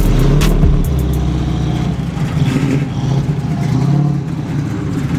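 A car engine running, with a heavy deep rumble for about the first second and a steady drone after.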